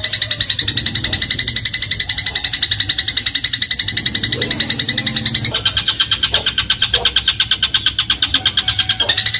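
Eurasian tree sparrow (burung gereja) giving a long, fast rattling trill of about a dozen notes a second. The pitch drops slightly about five and a half seconds in and rises again near the end.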